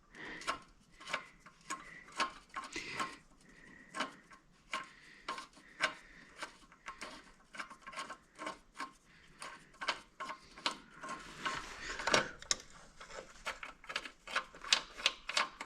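Hand tools clicking and scraping against metal parts of an ATV's chain area: a string of irregular sharp clicks that come thicker near the end.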